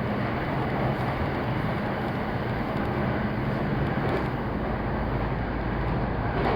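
Running noise heard from inside a Saikyo Line electric commuter train travelling at speed: a steady rumble of wheels on rail, with a low hum that fades out a couple of seconds in. A brief louder knock comes right at the end.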